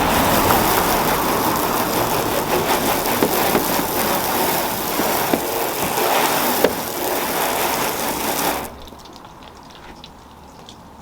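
Garden hose spraying water onto a car's body panel: a steady hiss of water striking the paintwork, cut off suddenly about nine seconds in, leaving faint dripping.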